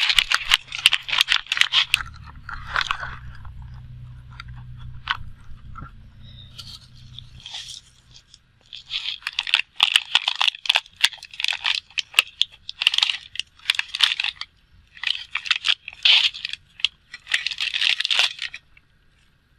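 Plastic water bottles being handled, crinkling and crunching in irregular bursts. A low hum sits underneath during roughly the first third.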